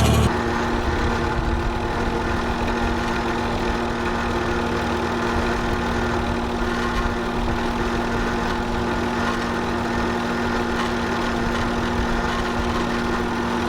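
Vehicle engine idling at a steady speed, with one constant tone.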